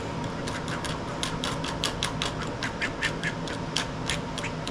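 A rapid run of sharp clicks, several a second, over a faint steady hum.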